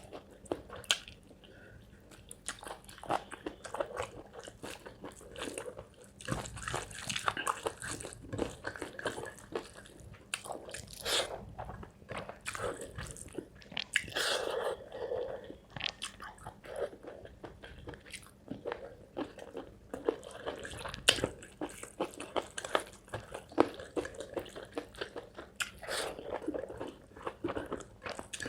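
Close-miked eating of spicy chicken curry with rice: continuous chewing and biting, with wet mouth sounds and frequent sharp crunchy clicks.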